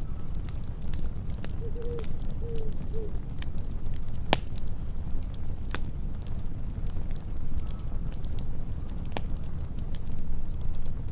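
Campfire burning with a steady low rush and scattered crackles and pops, three of them sharp and loud, over crickets chirping about once a second. A few short low calls come about two seconds in.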